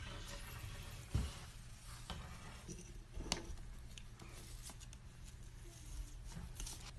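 Quiet room sound with scattered faint clicks and taps, and a soft knock about a second in.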